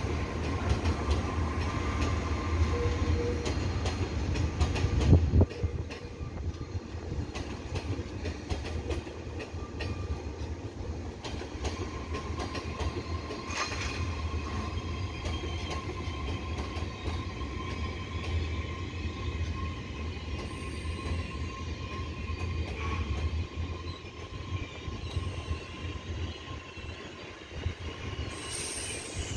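Electric passenger train rolling along the station tracks, its wheels clicking over rail joints and points with a faint, drawn-out wheel squeal. There is a single loud knock about five seconds in.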